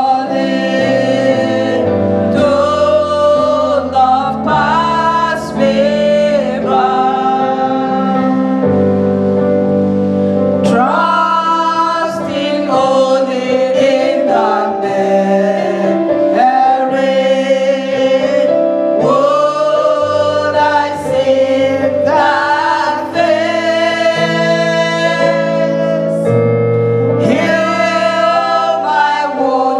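Church choir singing gospel music in slow, sustained phrases with long held notes.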